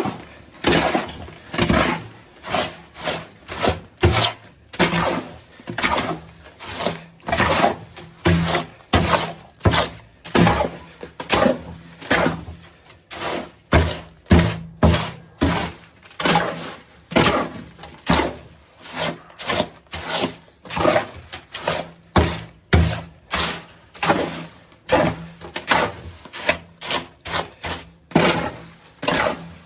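Concrete mix being worked by hand with a mixing tool: a steady rhythm of scraping, knocking strokes, a little more than one a second, as the wet mix is turned over.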